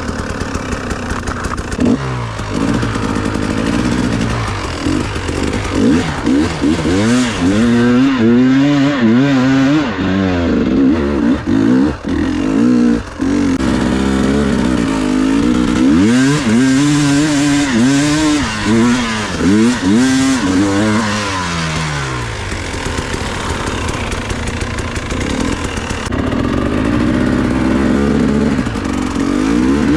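Enduro motorcycle engine revving up and down over and over, the throttle opened and closed in quick bursts, then running more evenly near the end.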